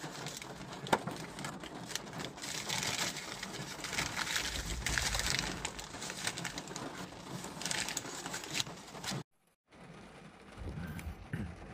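Rain falling on a car's roof and windshield, heard from inside the car: a dense patter of irregular drop ticks. It cuts out briefly about nine seconds in and returns as a lighter patter.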